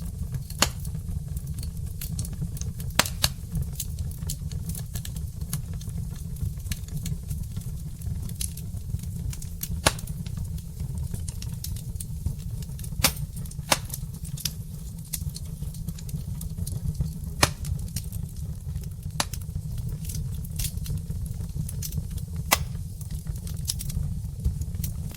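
Wood fire burning in a fireplace: a steady low rumble under irregular sharp crackles and pops from the burning logs, with a few louder pops.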